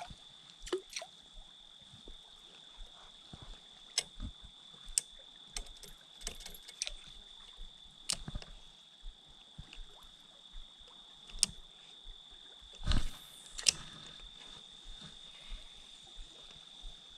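Scattered sharp clicks and knocks with a faint water sound, over a steady high-pitched whine; a louder cluster of knocks comes about two-thirds of the way in.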